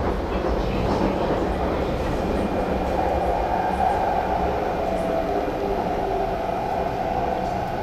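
Steady running noise heard inside a moving MTR West Rail Line IKK-Train car: the rumble of the wheels on the track and the car body, with a few faint steady tones mixed in.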